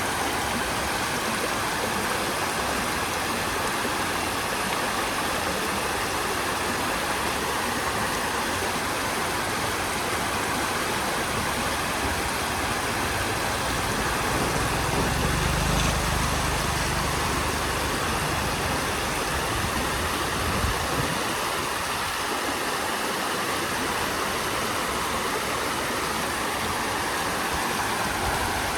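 Steady rushing of floodwater flowing past. A low rumble swells for several seconds about halfway through.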